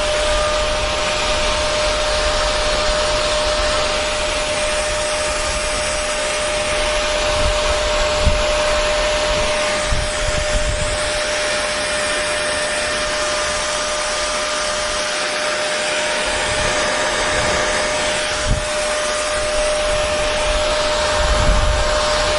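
Hair dryer running steadily: an even rush of blown air over a constant motor tone, with occasional low rumbles.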